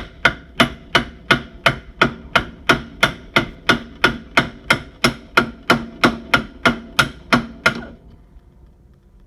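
Hammer tapping steadily on the nut-capped end of a Honda Recon 250's rear axle to drive the axle out of the hub. The blows come about three a second, each ringing briefly, and stop near the end.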